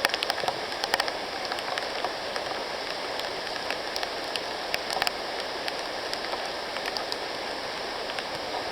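Rain falling in the rainforest: a steady hiss with scattered sharp taps of drops, thicker in the first second and again about five seconds in.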